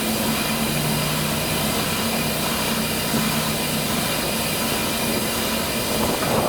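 Narrow-gauge steam locomotive working, a steady roar and hiss with a low, steady hum beneath.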